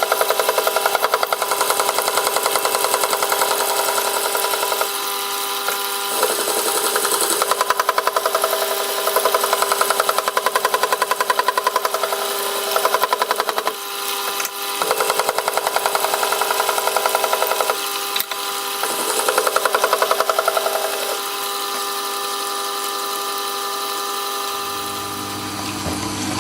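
A Jet water sharpening machine's electric motor running steadily while a knife edge is stropped on its leather belt. It hums with a fast, even rhythm, and the sound changes briefly a few times as the blade is shifted.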